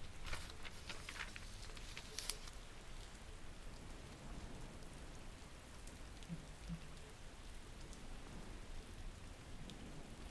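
Steady rain falling, with several sharp crisp clicks in the first couple of seconds.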